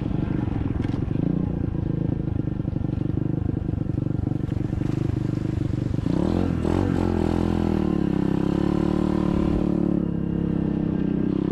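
SSR 125cc dirt bike's single-cylinder four-stroke engine running steadily under way. About six seconds in the revs dip and climb again, then settle.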